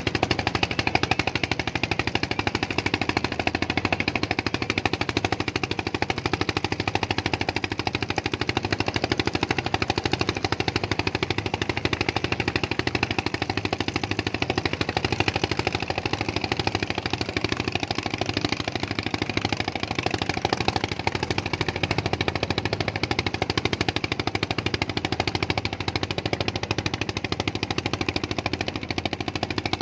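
A small engine running steadily with a rapid, even chugging pulse.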